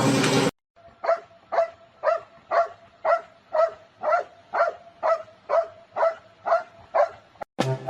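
A dog barking in a steady run of short, evenly spaced barks, about two a second. A loud sound cuts off half a second in, and music starts near the end.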